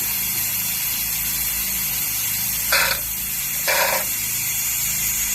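Two short hissing spray bursts, each well under half a second and about a second apart, over a steady background hum and hiss.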